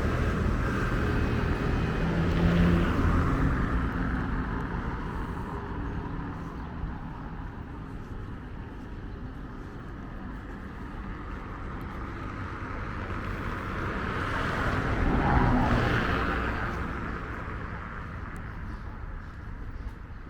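Street traffic: two motor vehicles pass close by, one about two and a half seconds in and another about fifteen seconds in, each swelling and fading over a steady hum of town traffic.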